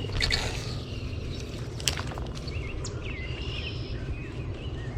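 Outdoor ambience with birds calling, one short patterned call about three and a half seconds in, over a steady low rumble, with two sharp clicks or rustles early on and about two seconds in.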